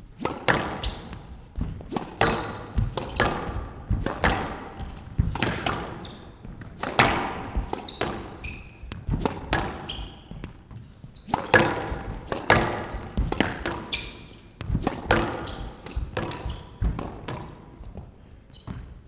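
Squash rally: the ball cracking off rackets and the court walls in quick irregular succession, echoing in the hall, with a few short high squeaks of court shoes.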